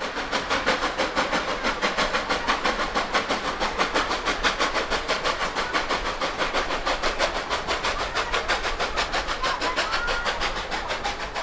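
Narrow-gauge steam locomotive working hard, its exhaust chuffing in a fast, even beat. It cuts in abruptly.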